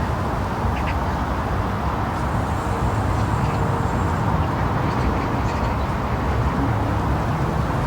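Steady low outdoor rumble of background noise, with a few faint duck quacks over it.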